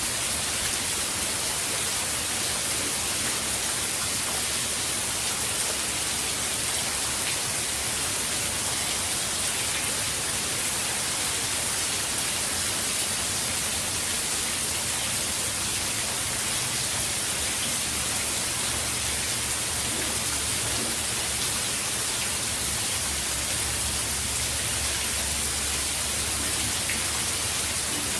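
Steady heavy hurricane rain falling, an even hiss with a faint low rumble growing in the second half.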